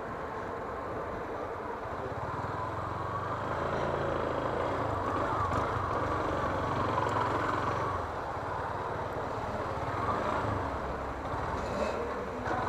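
Yamaha Fazer 250 motorcycle's single-cylinder engine running steadily while riding in town traffic, under a steady rush of ride noise.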